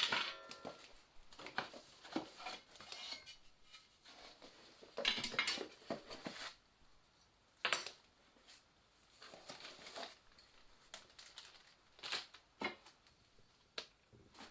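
Packaging being opened and handled: irregular rustling, crinkling and tearing of wrapping, with a few sharp clicks and knocks.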